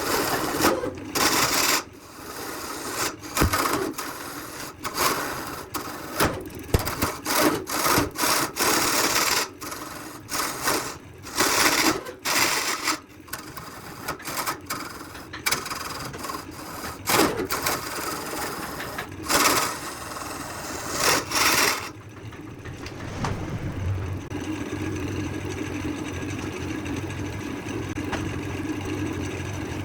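Wood being worked with hand tools: irregular scraping and rubbing strokes, some sharp knocks among them. About three quarters of the way through the strokes stop and a power tool's motor runs steadily.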